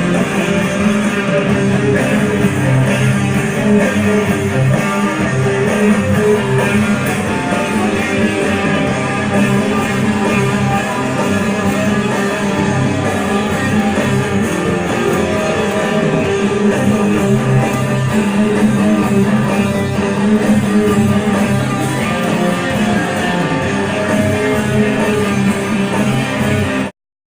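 Guitar music played steadily, ending abruptly near the end in silence.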